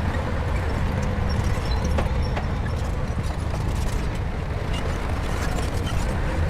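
Shantui bulldozer's diesel engine running steadily under load, with scattered metallic clicks and clanks.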